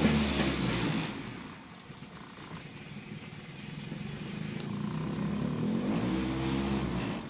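Honda B18B 1.8-litre four-cylinder engine, cold, being revved. The revs fall away about a second in, then rise again near six seconds and drop back. It runs rough and loads up while cold, which the owner puts down to a bad MAP sensor and the engine not firing on all four cylinders right away.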